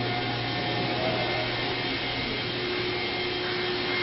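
Steady machine whir with a low hum under it and a faint steady high whine, unchanging throughout.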